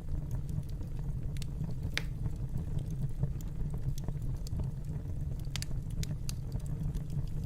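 Wood fire crackling in a fireplace: a steady low rumble of flames with scattered sharp pops and snaps at irregular moments, a louder pop about two seconds in and a few more past the middle.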